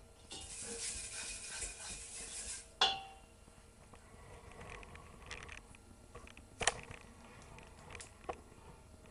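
Kitchen clatter: a couple of seconds of scraping hiss that ends in a sharp ringing clink, then a few more clinks of utensils and dishes.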